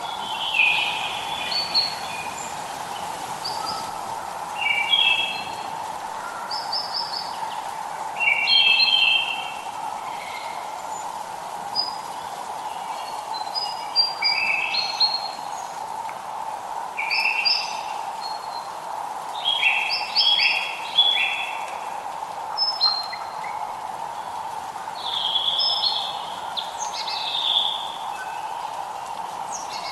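Songbirds chirping and singing in short, varied phrases every second or two over a steady background hiss.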